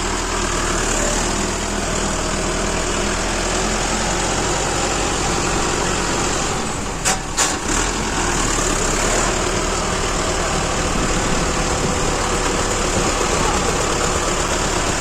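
Mahindra tractor's diesel engine running steadily at a low, even speed. Two sharp knocks come about seven seconds in.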